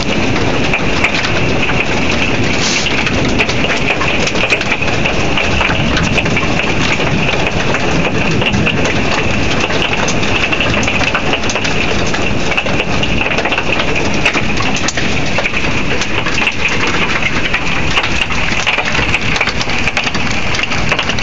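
Hail falling hard: a dense, steady hiss of stones striking, dotted with many sharp individual clicks of impact.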